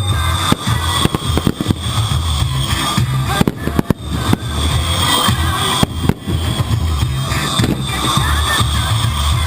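Consumer fireworks going off in quick, irregular bangs and crackles, over loud music with a steady bass played for the pyromusical display.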